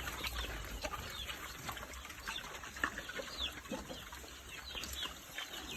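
Chickens clucking and peeping, many short high chirps that fall in pitch, with scattered small knocks.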